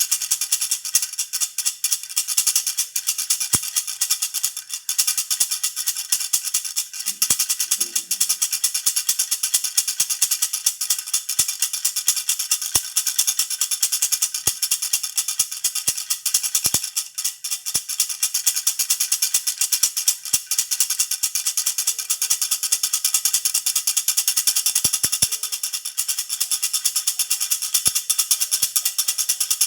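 Jhunjhuna baby rattle shaken steadily, giving a dense, fast, continuous jingling rattle.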